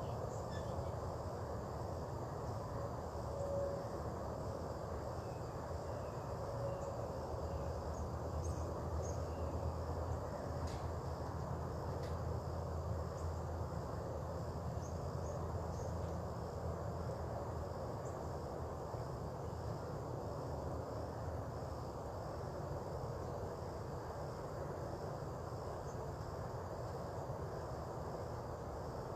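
Insects, crickets by their sound, chirping in a faint high, evenly repeated pattern over a steady low rumble of outdoor background noise.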